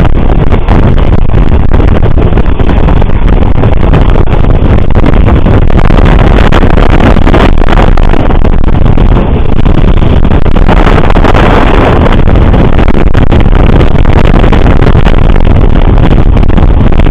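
Passenger train under way: a steady, very loud rumble with wind buffeting the microphone.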